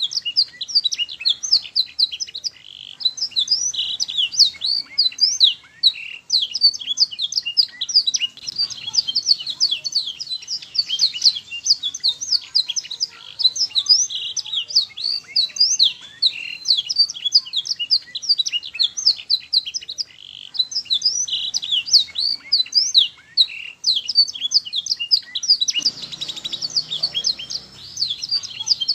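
Canary singing without pause: a fast, high-pitched song of chirps, trills and rolling phrases. A short spell of low rustling noise sits under the song near the end.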